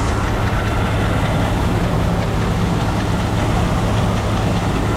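Seed-cleaning machinery and grain auger running steadily with a low hum, conveying cleaned oats into a bin.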